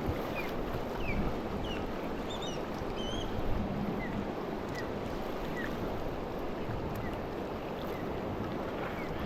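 Steady rush of river water flowing around a raft, with short high chirps scattered throughout.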